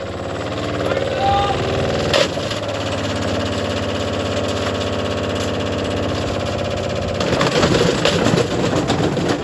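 Candy washing machine running its drum up to speed with a brick loose inside: a steady motor hum building over the first second, a sharp knock about two seconds in, and heavier rattling and banging from about seven seconds in.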